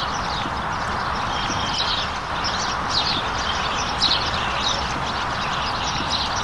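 Birds chirping in quick short calls, over a steady outdoor background hiss.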